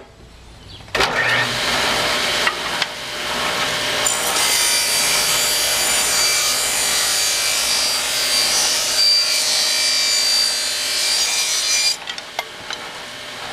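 Power saw blade cutting through a 3/4-inch pine board: the cut starts abruptly about a second in and runs steadily for about ten seconds with a high whine over the noise, then stops near the end.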